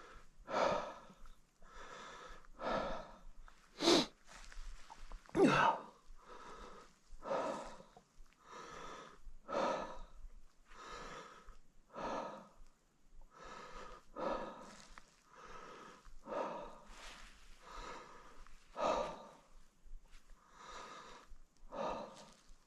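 A man breathing hard, with loud breaths about once a second that keep an even rhythm.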